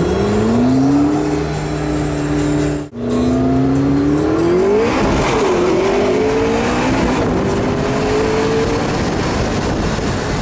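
McLaren 650S Spider's twin-turbo V8 pulling hard under acceleration: the engine note climbs, cuts out for an instant about three seconds in, climbs again, drops at an upshift around five seconds and climbs once more.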